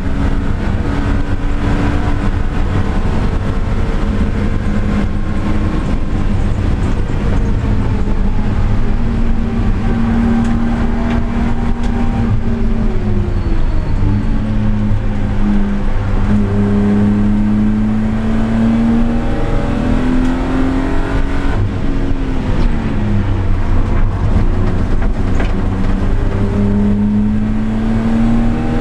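Car engine and exhaust at speed on a race track, the revs climbing and falling again and again through gear changes and braking. There is a clear fall in revs about two-thirds of the way through.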